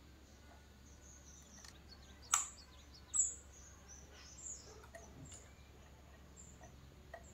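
Faint, scattered high bird chirps, with a sharp click about two seconds in and a louder chirp a second later.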